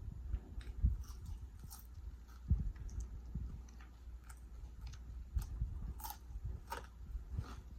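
A person chewing and biting food close to the microphone: irregular mouth clicks, smacks and crunches.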